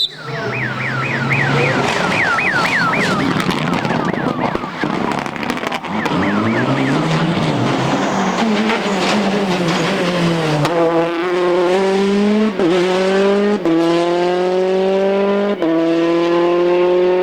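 Rally car run hard: a fast warbling squeal in the first few seconds, then the engine slows before accelerating hard, its pitch climbing and dropping sharply at three upshifts.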